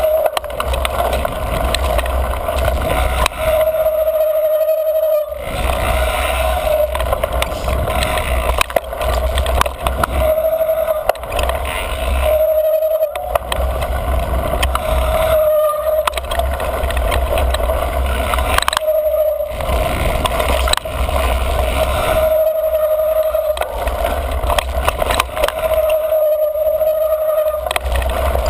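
Mountain bike rolling fast over dirt singletrack: tyre and trail noise, with wind rumbling on the microphone. The squealy front brake squeals about seven times, each a short steady squeal lasting half a second to a second and a half, as the rider brakes.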